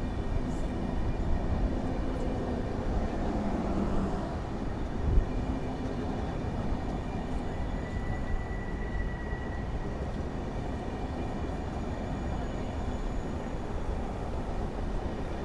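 Passenger train running on the rails: a steady low rumble, with a single knock about five seconds in and a brief high squeal about eight seconds in.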